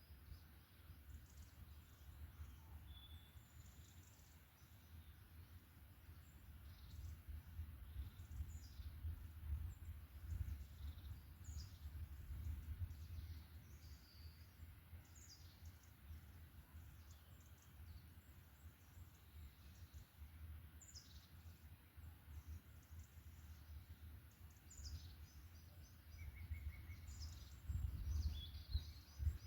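Forest birds chirping and calling faintly, many short high chirps scattered throughout, over a steady low rumble that swells near the end.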